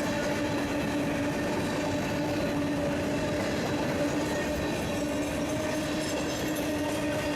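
A freight train rolling past: a steady rumble of wheels on rail, with a steady pitched hum.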